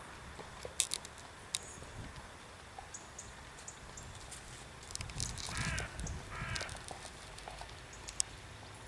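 Two harsh cawing bird calls about a second apart, a little over halfway through.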